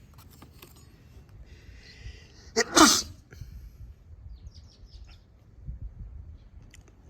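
A person sneezing once, loudly, about two and a half seconds in, with a falling pitch. A few small clicks follow.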